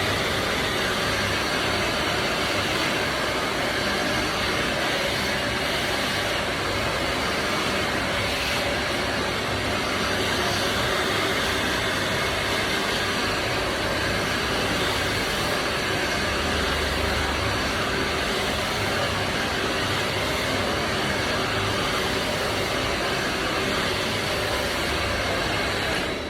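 Handheld hair dryer running steadily on high, blowing air.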